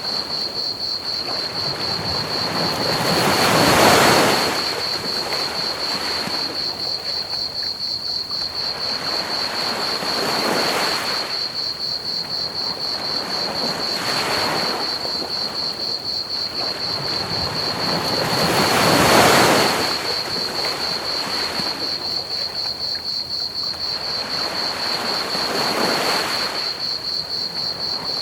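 Ocean waves washing onto a beach, swelling and fading in slow surges, with two larger waves breaking about four seconds in and two-thirds of the way through. Under them crickets chirp in a continuous high-pitched trill, over a steady hiss of pink noise.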